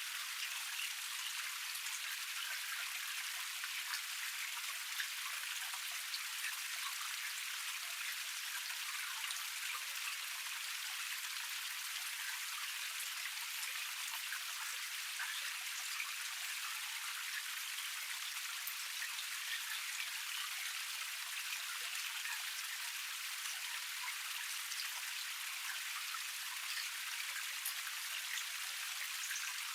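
Small forest cascade: water splashing and trickling steadily over rocks, an even hiss with a fine patter of drops.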